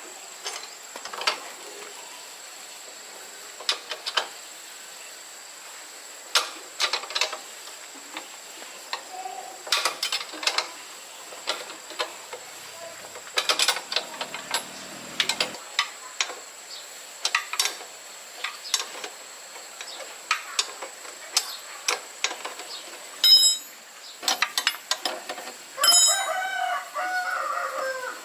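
Scattered metallic clicks and clinks of hand tools and parts during motorbike repair work. Near the end comes a longer, wavering pitched sound.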